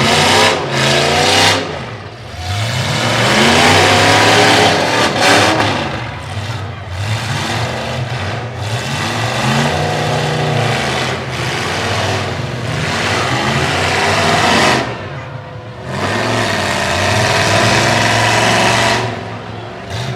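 Demolition derby truck engines revving hard, their pitch climbing and falling again and again as the trucks go at each other, easing off briefly a few times.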